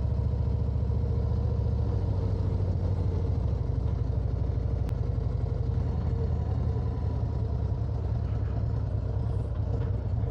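Harley-Davidson Road Glide's V-twin engine running steadily under way while climbing a hill road, a deep, even pulse with no revving.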